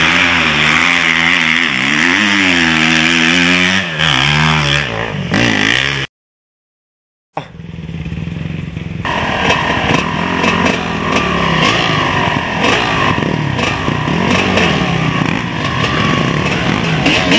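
Motocross dirt bike engines revving up and down under throttle. The sound cuts out completely about six seconds in for over a second, then comes back with more than one engine running.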